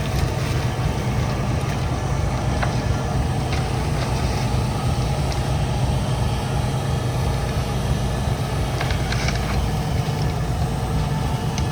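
Heavy diesel engine of earthmoving equipment running steadily with a low rumble, with a brief rattle about nine seconds in.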